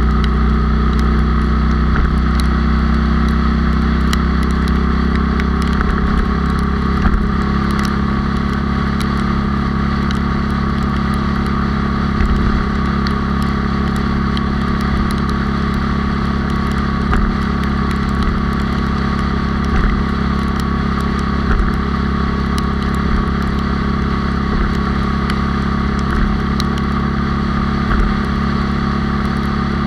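Honda Cub's single-cylinder four-stroke engine, bored up to 97 cc and geared high, running at a steady speed while the bike cruises. Occasional brief knocks sound over it.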